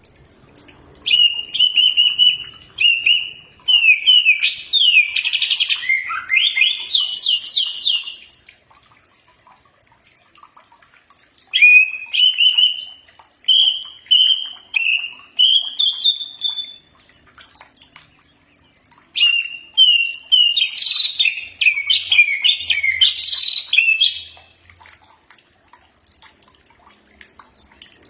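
Cucak ijo (green leafbird) singing: three bouts of varied whistled phrases with short pauses between them, the first ending in a fast run of sweeping notes.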